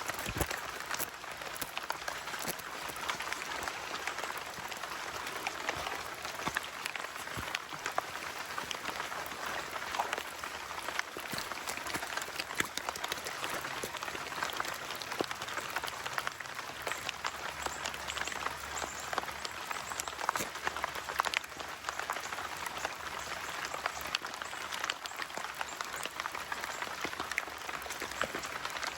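Steady patter of rain, a continuous hiss with many small drop ticks.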